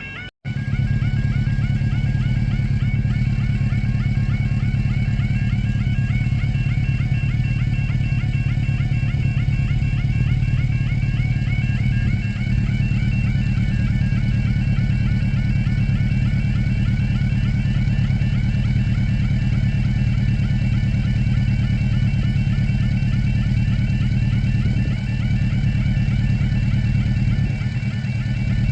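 Level crossing audible alarm warbling continuously in a fast repeating yodel. It keeps sounding because the crossing has failed with its barriers stuck down. Under it runs a steady low engine hum from a road vehicle waiting close by.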